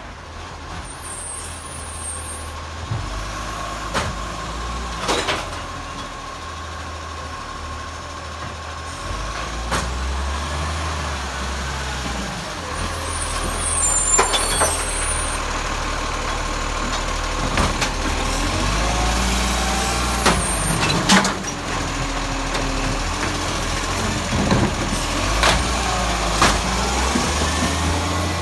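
Garbage truck at work: its diesel engine runs steadily and rises in level, with a steady whine and about eight sharp knocks and bangs spread through, typical of bins being lifted and emptied.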